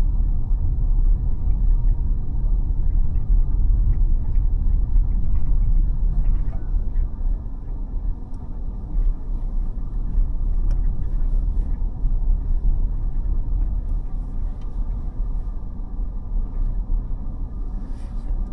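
Car driving along, with a steady low rumble of road and engine noise and a few faint ticks.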